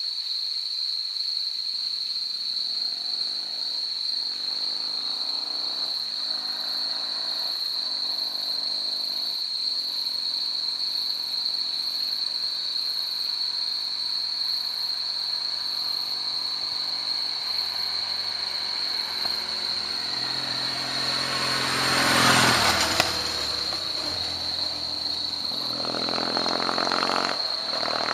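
Kawasaki W-series parallel-twin motorcycle heard from a distance, its engine note stepping up through the gears and then holding steady. It swells to its loudest as it passes close about 22 seconds in, then rises again near the end.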